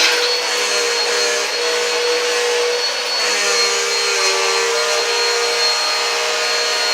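Vacuum cleaner running on carpet, a steady motor noise with a high whine; the pitch of its hum wavers a few times as it is pushed about.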